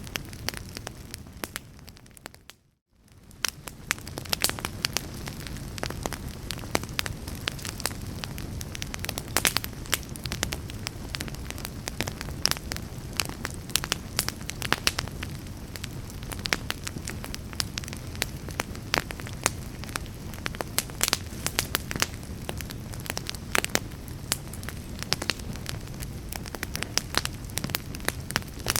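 Fireplace fire crackling and popping, with many sharp snaps over a steady low rumble of the flames. About two seconds in the sound fades away to almost nothing and comes back within a second or so.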